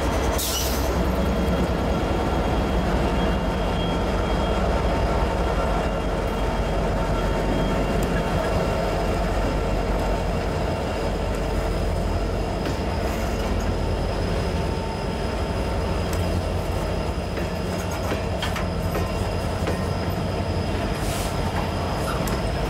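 Norfolk Southern freight train rolling past close by: the trailing diesel locomotive gives way to a long string of hopper cars with steady wheel-on-rail rumble. A thin, steady wheel squeal runs over it, with a few sharp clicks of wheels over rail joints.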